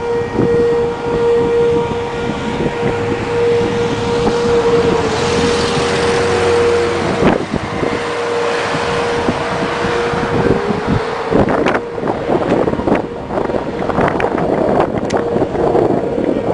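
Outdoor tornado warning siren sounding one steady tone over heavy wind noise buffeting the microphone. The siren fades out about eleven seconds in, leaving gusty wind and crackling.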